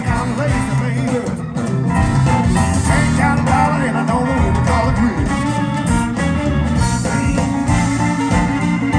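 Live band playing a blues song, with electric guitar to the fore over bass and drums.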